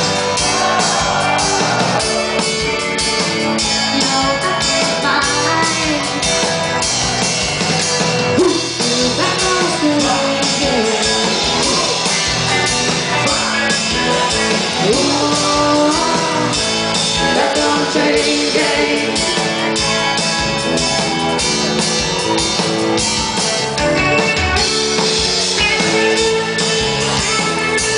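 A band playing a rock song: singing over guitar and drum kit, at a steady level throughout.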